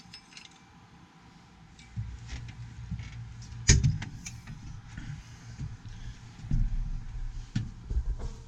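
Scattered metallic clicks and clunks of the tractor being handled as its engine oil is checked, one sharp knock loudest about a third of the way in, over a low, uneven rumble; the engine is not running.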